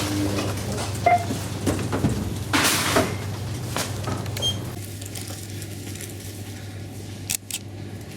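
Scattered knocks and clatter over a steady low hum. The background changes abruptly about five seconds in, and two sharp clicks follow near the end.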